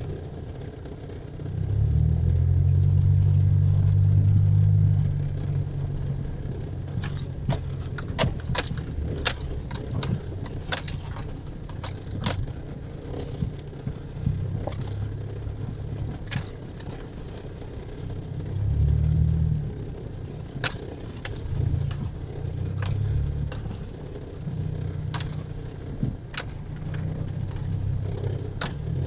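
Car on the move with a low rumble that swells and fades, and frequent sharp clinks and rattles like keys or loose objects jangling over bumps.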